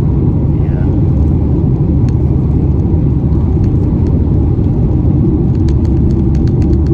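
Steady low rumble of a car with a 1.4-litre engine being driven, with engine and road noise heard from inside the cabin.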